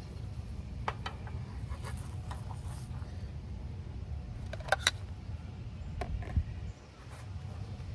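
Light clinks and clatter of cookware and utensils over a steady low rumble, with two sharp clicks near the middle.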